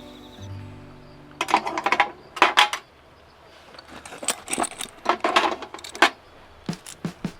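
Metal camping gear clinking and clattering against a steel toolbox as it is packed in: a series of sharp clinks in clusters, loudest between about one and a half and three seconds in, then lighter scattered ones.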